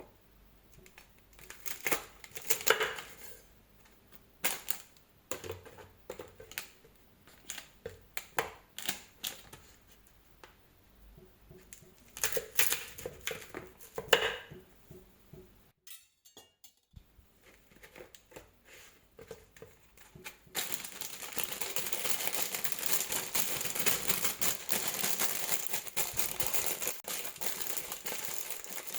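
Kitchen handling sounds: scattered light clicks, knocks and crinkling, then after a short break a steady hiss lasting about eight seconds.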